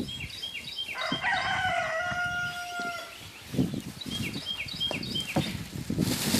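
A rooster crows once, a long call starting about a second in and lasting about two seconds. Behind it another bird gives rows of short, quick, high chirps, and low knocks come and go throughout.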